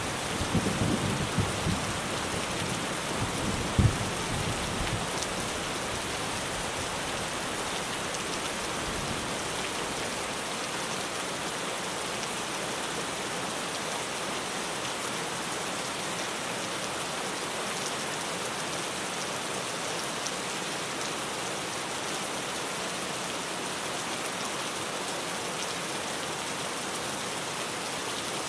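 Steady rain drumming on a tin roof. A low rumble of thunder dies away in the first few seconds.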